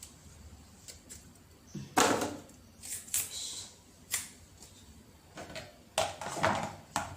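About half a dozen separate knocks and short scrapes from grating by hand on a kitchen grater, with pauses between them.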